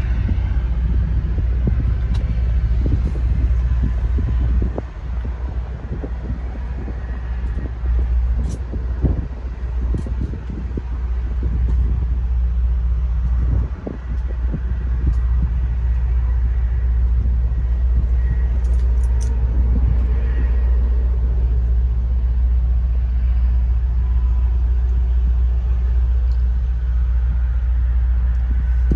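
Large diesel truck engine idling, a steady low rumble.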